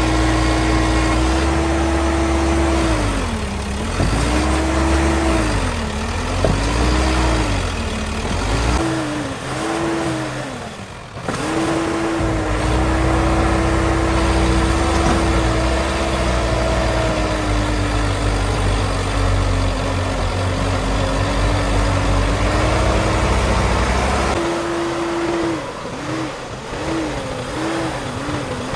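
Heavy diesel machinery engine working under load: its pitch sags and recovers again and again, as the revs dip and climb during digging and loading. The sound changes abruptly a few times, as between separate clips.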